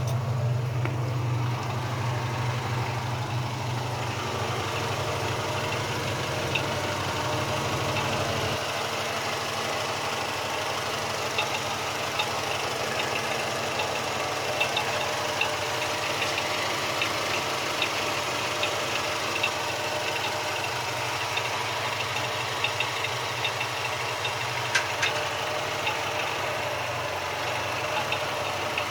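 Car engine idling with a light, irregular ticking knock over its steady running note; the low hum of the engine drops about eight seconds in.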